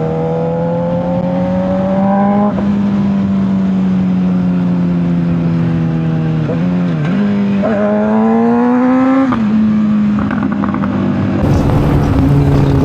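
Honda CBR600RR's inline-four engine running at steady cruising revs under wind noise, dipping briefly about six and a half seconds in, then rising in pitch as it accelerates before levelling off. The wind noise grows louder near the end.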